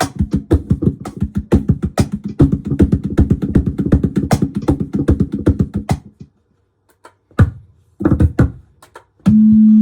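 Laptop cajon played in a fast run of hand strikes through a Digitech BP 355 multi-effects pedal, with a steady low effect tone under the hits. After a pause and a few more hits, a loud steady feedback tone starts near the end.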